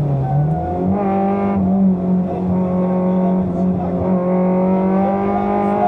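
Fiat Seicento rally car's engine heard from inside the cabin, under hard driving on a stage. The revs dip in the first second, climb about a second in, then hold steady for the rest.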